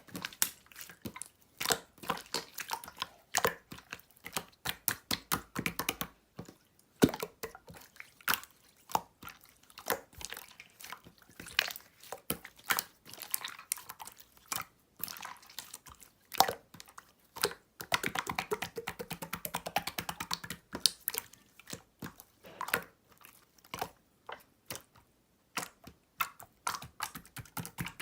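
Clear slime being squeezed, stretched and pressed by hand, making wet, sticky clicks and pops, with a dense run of rapid little pops about two-thirds of the way through.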